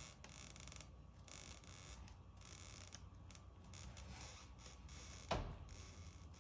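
Faint handling noise as a painted canvas is tilted by hand, with one sharp knock about five seconds in.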